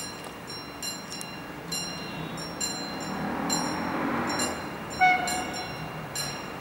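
A Siemens Desiro class 460 electric multiple unit approaching, its running noise swelling, with a short horn blast about five seconds in. A high ringing repeats about once a second.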